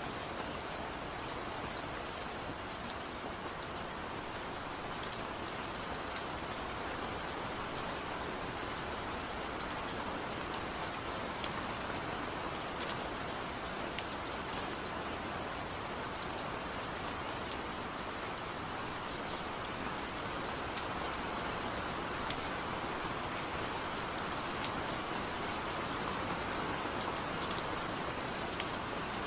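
Steady rainfall, an even hiss with scattered single drops ticking sharply on a surface.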